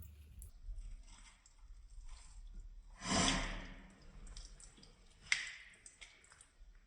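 Quiet handling of a plastic bottle trap as it is taken off a sink waste: a soft breathy rush about three seconds in, then a single sharp click a couple of seconds later.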